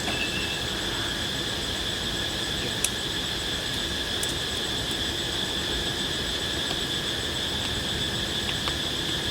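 Steady chorus of forest insects, crickets and the like, trilling at several even high pitches without a break, with two brief sharp clicks about three and four seconds in.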